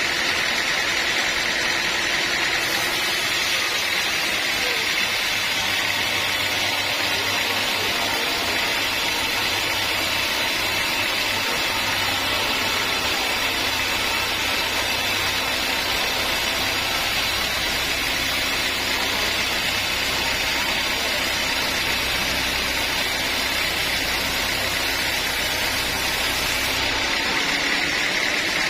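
Band sawmill running steadily, its blade sawing through a teak log. A deeper hum comes in about five seconds in and drops away near the end.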